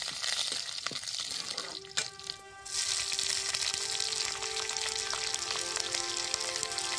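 Hot oil sizzling in an iron kadai as finely chopped green chillies fry. A sharp click about two seconds in and a brief lull, then the sizzle returns louder and steady.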